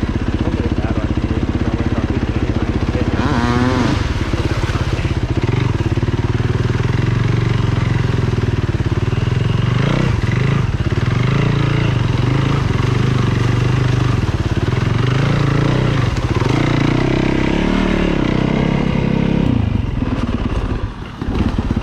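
Dirt bike engine running while riding a trail, its revs rising and falling with the throttle, with a brief drop in level near the end.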